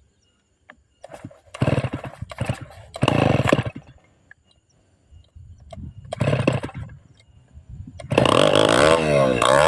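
Two-stroke chainsaw being pull-started: it fires briefly about two, three and six seconds in and dies each time, then catches about eight seconds in and runs, revving up and down.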